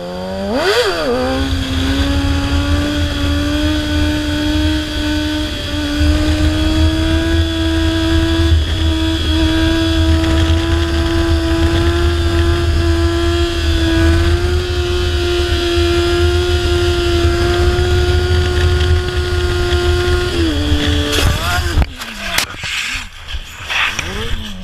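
Kawasaki ZX-6R 636 inline-four revs up, then is held at high revs for about twenty seconds, its pitch slowly rising, in a long wheelie. Near the end the engine drops off abruptly, followed by a few seconds of clattering knocks and scraping as the bike loops over backwards and crashes.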